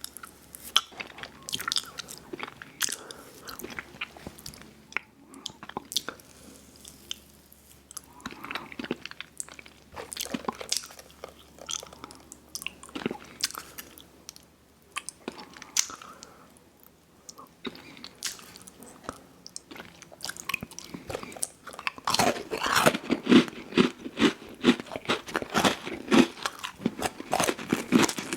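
Close-miked chewing and biting of ice cream sandwiches, with mouth sounds and occasional crunches. The chewing is sparse at first, then turns louder and more continuous about two-thirds of the way through.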